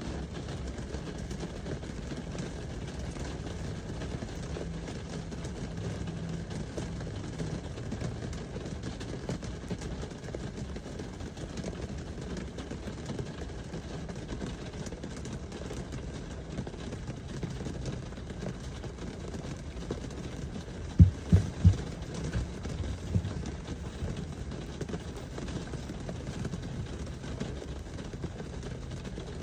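Steady rain with a low rumble underneath. About two-thirds of the way in, three sharp knocks come in quick succession, then a softer one.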